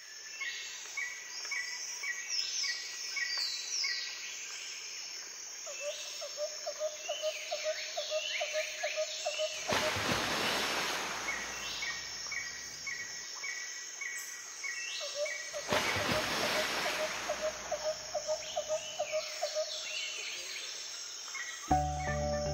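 Birds calling and singing: rows of short repeated chirps, quick high calls and, twice, a low rapid trill lasting a few seconds, with a swell of rushing noise about ten seconds in and again about sixteen seconds in. Music comes in just before the end.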